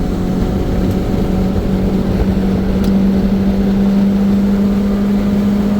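Turbocharged 2.0-litre car engine droning at a steady engine speed, heard from inside the cabin over tyre and wind noise.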